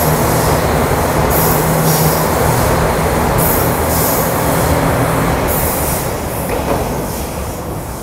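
KiHa 261 series diesel express train running past close by, its diesel engines droning under loud wheel-on-rail noise that swells about every two seconds as each car goes by. The sound eases off over the last couple of seconds.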